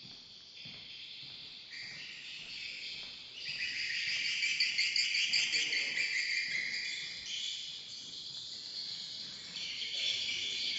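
Swiftlets twittering: many overlapping high-pitched chirping trills, growing louder about a third of the way in and again near the end.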